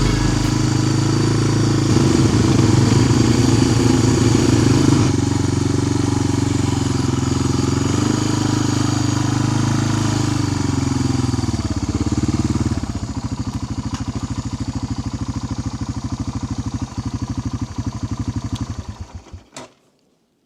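A motor vehicle's engine running, settling about two-thirds of the way in into an even, pulsing idle, then switched off near the end, dying out within about a second.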